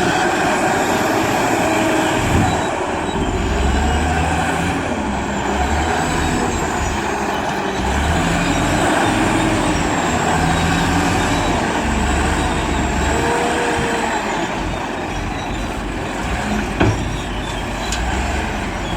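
Wheel loader's diesel engine working, its revs swelling and easing every second or two as it loads a dump truck, with a faint wavering high whine. Two short knocks, one a couple of seconds in and a sharper one near the end.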